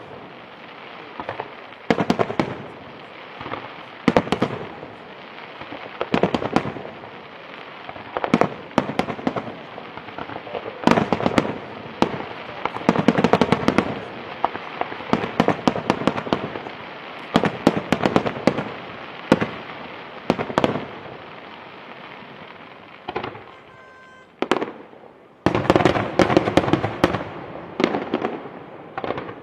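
Aerial fireworks display: a steady run of sharp bangs and shell bursts, often in quick clusters of crackling reports. It eases briefly near the end, then breaks into a dense final volley.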